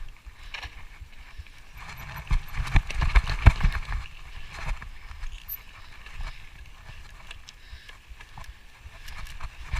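Mountain bike rattling and knocking over rough trail, with wind rumbling on the microphone; the knocks come thickest between about two and four seconds in.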